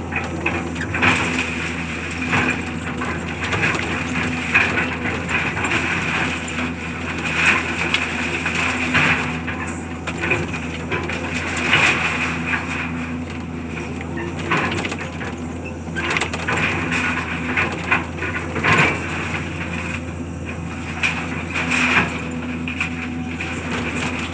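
Demolition debris crunching and cracking in irregular bursts over the steady hum of a running engine.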